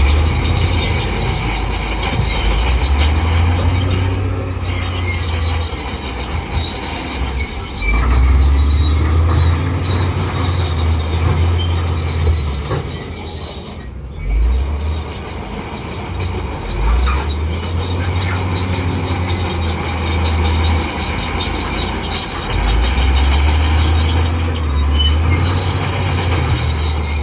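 Crawler bulldozer working: its diesel engine pulls hard in several long spells and eases between them, while the steel tracks squeal and clank.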